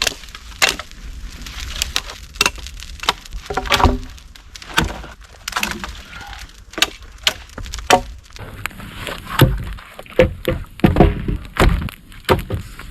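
Wooden sticks and branches cracking, snapping and knocking together in a quick, irregular series of sharp cracks.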